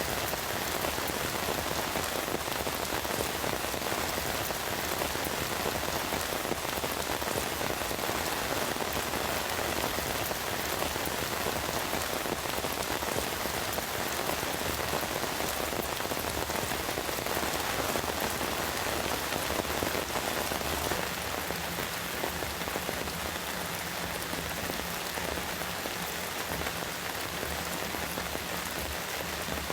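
Heavy rain falling steadily, a dense patter of drops; it eases a little about two-thirds of the way through.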